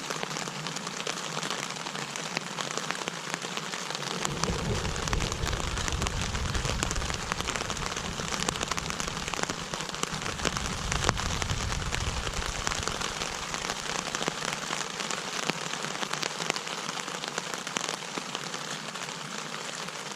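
Heavy rain falling steadily, a dense patter of drops. A low rumble comes in about four seconds in and dies away about ten seconds later.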